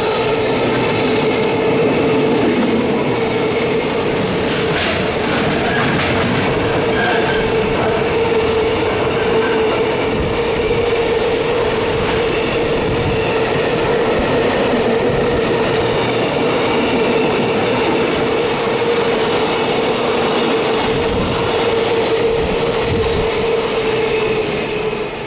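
Container flatcars of a freight train rolling past at close range: a loud, steady noise of wheels on rail with a steady droning tone underneath. It drops away at the very end as the last wagon goes by.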